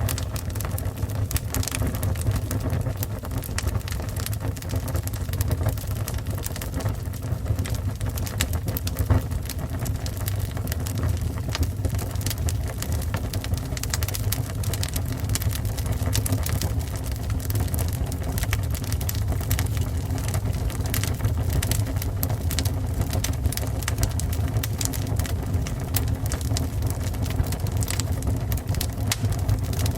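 Fire burning, with frequent short crackles and pops over a steady low rumble.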